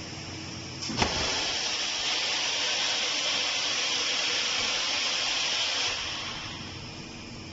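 A sharp click, then a loud steady hiss of venting pressure lasting about five seconds before it fades, over a steady machine hum.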